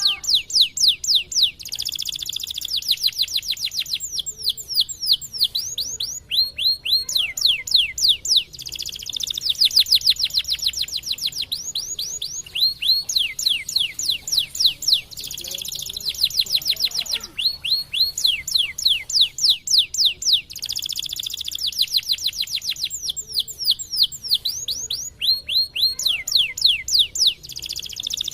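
Domestic canary singing: long trilled phrases, each a fast run of repeated sweeping notes, broken by short pauses between phrases.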